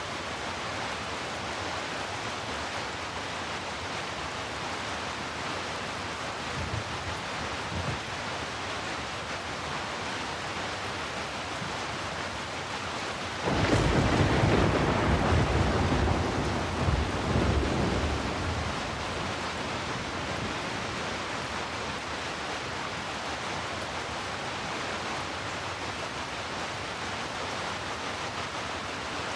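Steady heavy rain with a clap of thunder about halfway through that rumbles on for several seconds and fades. A fainter low rumble comes a few seconds before it.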